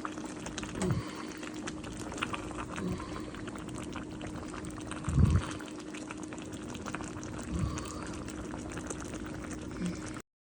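Close-miked eating and drinking mouth sounds: many small wet clicks and slurps, with a few low thumps. The sound cuts off abruptly just before the end.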